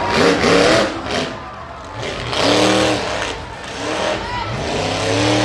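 Monster truck engine revving in loud bursts.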